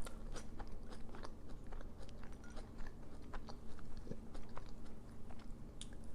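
A person chewing a mouthful of crispy breaded food, with many small crisp crunches and clicks.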